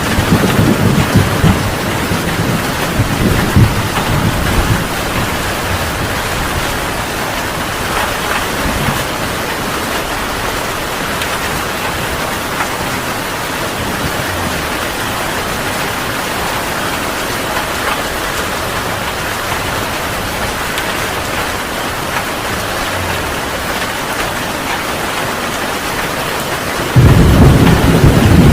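Heavy rain falling steadily in a thunderstorm. Thunder rumbles in the first few seconds and fades, then a loud thunder rumble breaks in suddenly near the end.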